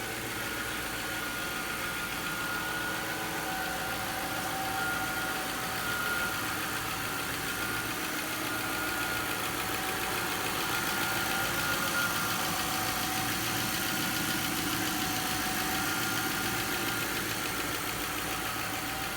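2000 Lincoln LS 3.9-litre V8 engine idling steadily.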